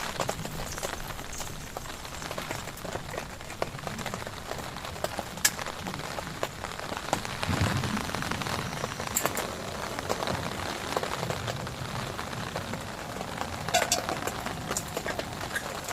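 Heavy rain falling steadily on a surface, with a few sharp, louder drop hits standing out.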